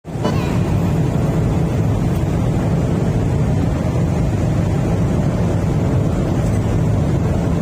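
Steady low vehicle rumble with an even hiss above it, unchanging throughout.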